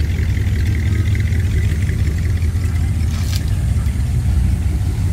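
A car engine running low and steady at slow speed, with a brief sharp click about three seconds in.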